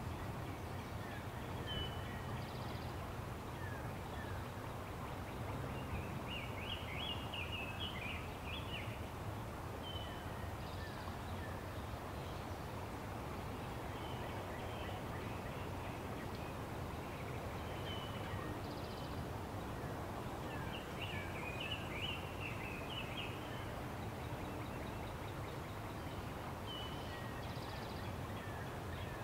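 Birds calling over a steady outdoor background hiss: short high chirps every few seconds, and two spells of rapid chattering, about a quarter of the way in and again about three quarters through.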